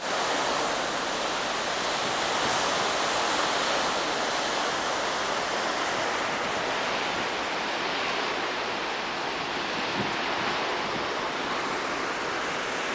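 Steady rushing of sea water churned by a moving boat, mixed with wind on the microphone, unbroken throughout.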